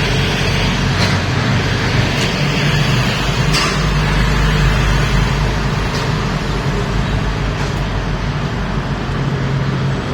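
Steady engine and road noise of a motor vehicle, with a low hum and a few faint clicks.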